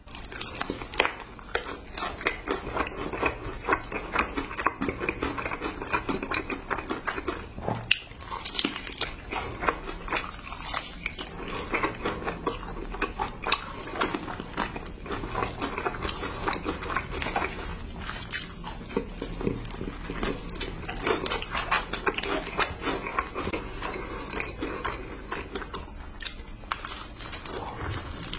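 Close-miked crunchy biting and continuous chewing of a sauced Korean fried chicken drumstick, with many sharp crackles.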